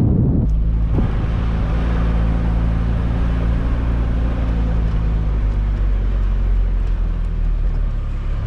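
Engine running steadily at a constant speed, a low hum of steady tones that sets in abruptly about half a second in.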